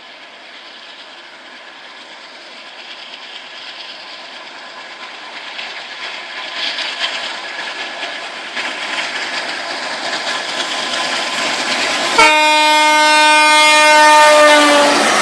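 Indian Railways train approaching, the noise of its wheels on the track growing steadily louder. About twelve seconds in, the locomotive's horn sounds a long blast. Its pitch drops near the end as the train passes.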